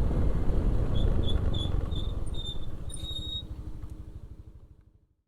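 Motorcycle riding along, its engine and the road giving a low rumble, which fades out toward the end. In the middle comes a series of short high chirps, about three a second, each a little longer than the last.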